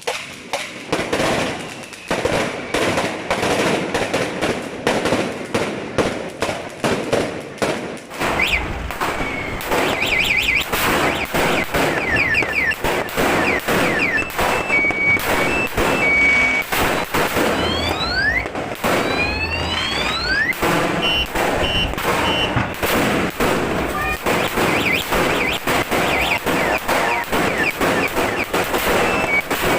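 A firecracker belt, a 1000-round 'Sawa' Judas belt, going off as a rapid, unbroken crackle of bangs. From about eight seconds in, high whistling tones and rising and falling sweeps sound over the crackle.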